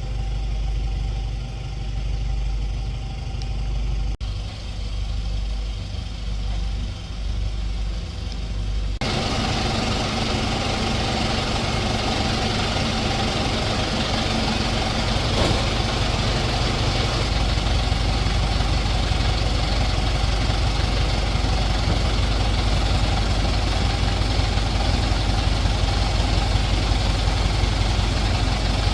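Heavy-duty truck engine running steadily: a low rumble at first, then about nine seconds in it switches abruptly to a louder, fuller, harsher running sound.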